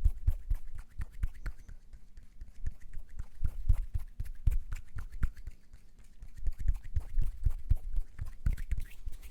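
ASMR mouth and hand sounds close to the microphone: quick, irregular clicks and pops with deep thumps underneath, coming in bursts with short pauses.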